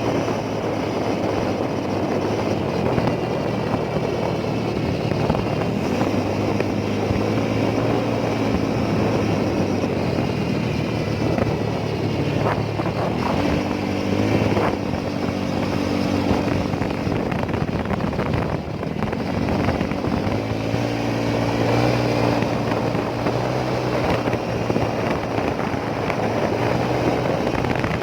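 Motorcycle engine running on the move, its pitch rising and falling several times with speed, over a steady rush of road noise.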